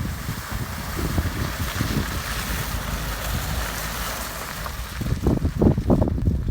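Wind buffeting the microphone over the low rumble of a vehicle driving off-road, with rough irregular thumps that grow heavier about five seconds in.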